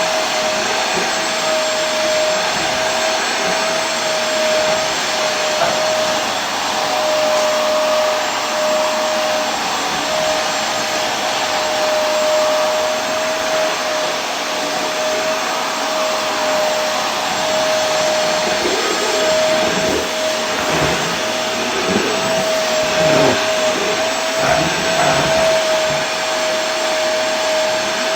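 Vacuum cleaner running continuously: a steady rushing hiss with a constant motor whine, and some irregular low rumbles in the second half.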